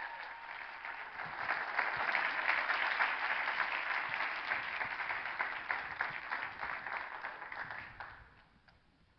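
Audience applauding, fading away about eight seconds in.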